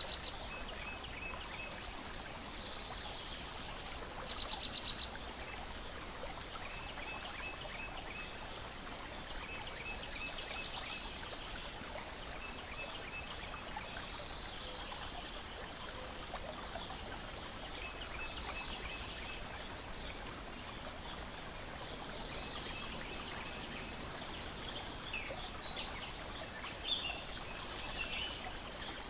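Lakeside nature ambience: a steady wash of water lapping and trickling, with birds calling over it. A loud, rapid buzzy trill comes about four seconds in, short runs of chirps repeat every few seconds, and scattered calls follow near the end.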